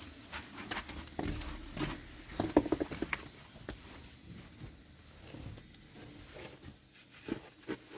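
Irregular light knocks and clicks, with a denser cluster of louder ones about two and a half to three seconds in.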